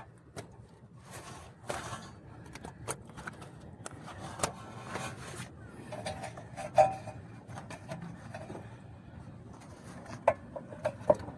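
Irregular scrapes, clicks and sharp knocks of hands and tools working the rubber boot off a car's inner CV joint after its clamp has been loosened; one sharper knock comes a little before halfway through.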